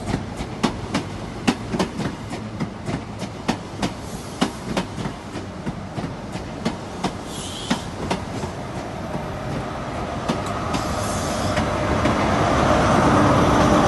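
Class 43 HST train running through the station, its wheels clicking over rail joints and pointwork about two or three times a second. In the last few seconds a heavier rumble builds and grows louder.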